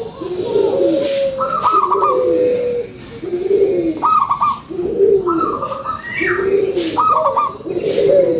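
Zebra dove (perkutut) singing its cooing song: low coos repeated about every second or so, broken every few seconds by a higher, quavering trilled note.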